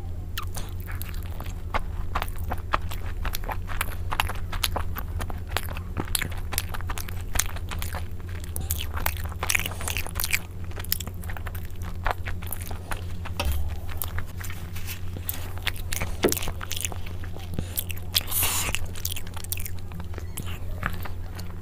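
Close-miked biting and chewing of fried chicken pieces in curry gravy, with many sharp wet mouth clicks, over a steady low hum.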